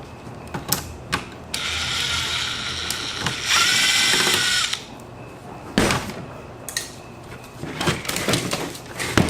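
Small electric screwdriver whirring for about three seconds as it backs out a laptop screw, getting louder and shifting in pitch partway through. A few sharp clicks and knocks follow.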